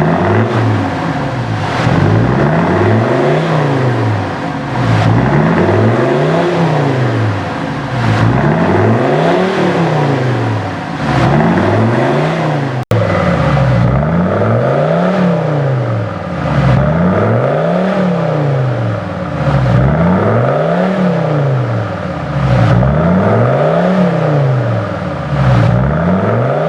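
SsangYong Rodius diesel engine through a custom single exhaust, revved again and again from idle: a deep, low-mid exhaust note rising and falling in pitch about every one and a half to two seconds.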